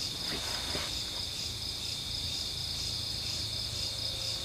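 Night insects, crickets, trilling without a break: a high continuous tone with a fast pulsing trill just above it.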